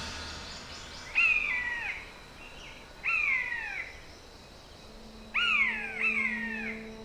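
A bird gives four descending whistled calls, the last two close together. A low steady musical drone comes in about five seconds in.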